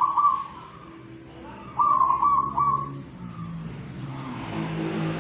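A bird singing clear, whistled phrases of short falling notes, one at the start and a longer broken phrase about two seconds in, over a steady low drone.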